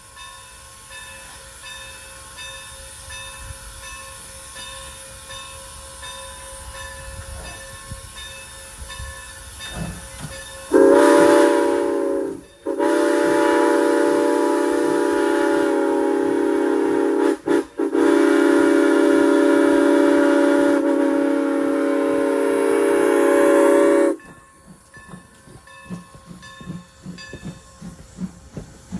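Former Norfolk and Western 475 steam locomotive hissing steam, then sounding its chime whistle in the long, long, short, long pattern of a grade-crossing signal. A steam hiss continues after the whistle stops.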